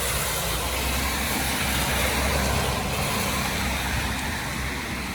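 Road traffic on a wet street: a vehicle passing with tyre hiss on the rain-soaked road and a low engine rumble, swelling slightly about two seconds in and then easing off.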